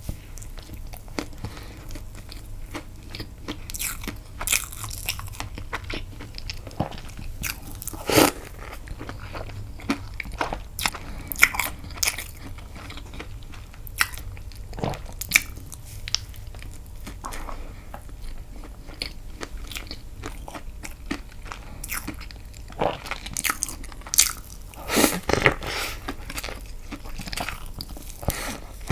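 A person eating close to the microphone, with bites, chewing and wet mouth clicks at irregular moments, typical of a mukbang eating castella sponge cake dipped in milk. A denser run of bites and chewing comes near the end.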